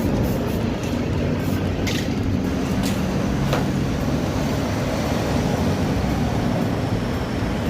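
Car engine idling steadily, with a few short sharp clicks about two to three and a half seconds in.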